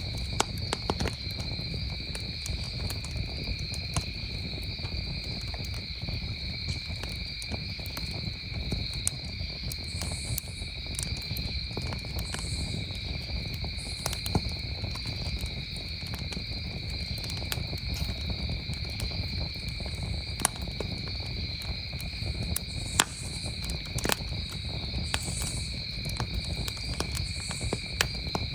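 Wood campfire crackling with scattered sharp pops, a few of them louder, over the steady chirring of crickets.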